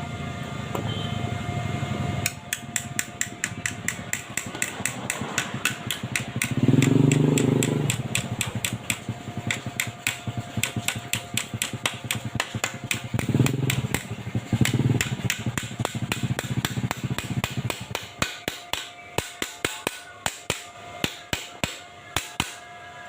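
Hammer tapping rapidly on metal, several strikes a second, while a patch is worked onto a rusted-through motorcycle exhaust. The strikes thin out to scattered taps near the end.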